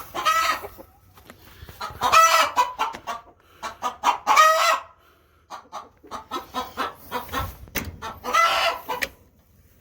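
Hen cackling: runs of short clucks broken by four loud, drawn-out squawks. This is the racket hens make to announce a freshly laid egg, though it may also be a hen upset at being kept from the nest box.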